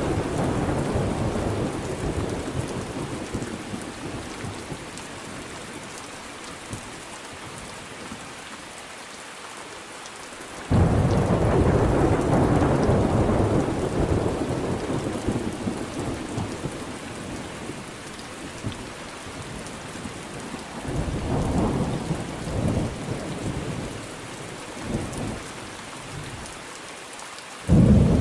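Thunderstorm with steady rain falling. A rumble of thunder fades over the first few seconds. About eleven seconds in a sudden loud thunderclap breaks and rolls on for several seconds, softer rumbles follow later, and another sharp clap comes at the very end.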